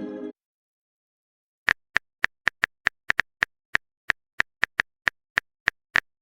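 Smartphone keyboard tap sounds of a message being typed: a run of short, sharp clicks, about three or four a second, starting just under two seconds in, after the fading end of a short chime.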